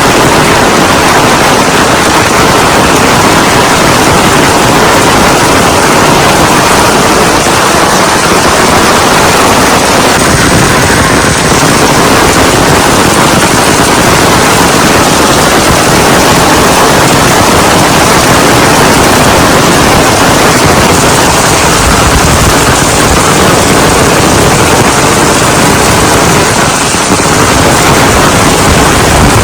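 Heavy rain pouring down: a loud, dense, unbroken hiss made of countless fast drop impacts.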